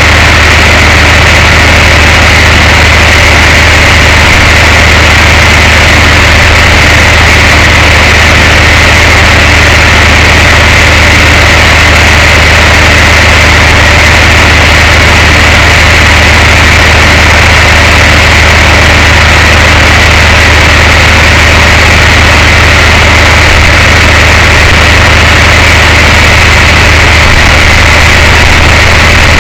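Tow truck's engine running steadily, a loud, unchanging drone with no rise or fall in pitch.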